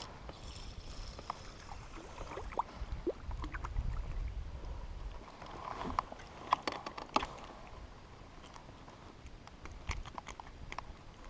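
Small knocks and clicks of handling and gear aboard a kayak, over faint water hiss, with a low rumble for a couple of seconds near the middle.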